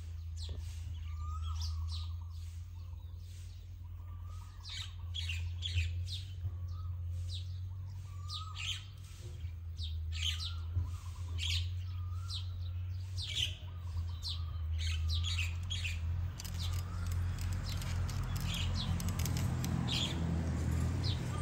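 Small birds chirping in many quick short calls, over a steady low hum; a rushing noise builds over the last several seconds.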